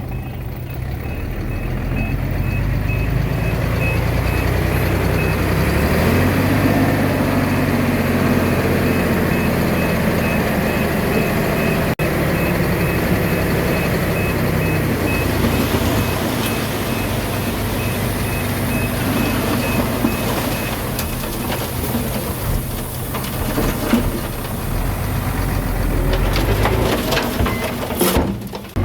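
Diesel engine of heavy earthmoving equipment running under load while its reversing alarm beeps steadily; the beeping stops about two-thirds of the way through and the engine keeps working.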